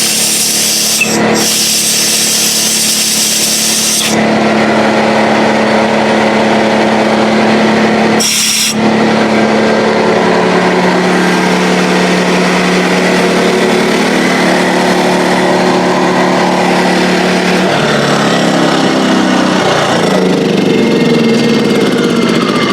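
DeWalt 6-gallon air compressor running steadily while an air blow nozzle hisses in bursts, blowing residual coolant and dirt out of the engine's head bolt holes: a blast of about four seconds at the start and a short one about eight seconds in. The compressor's hum changes pitch about eighteen seconds in.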